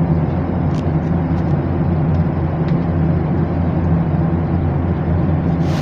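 Steady low drone inside an airliner cabin, from the engines and the rushing air. A few crackles begin near the end.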